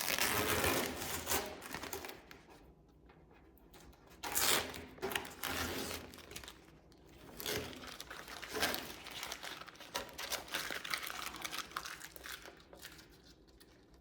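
Irregular rustling and scraping of hands and parts being handled and worked into place, in a series of short noisy scrapes with quieter gaps between.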